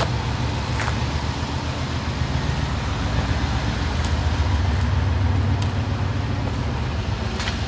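A car engine idling steadily, a low even rumble, with a few faint clicks.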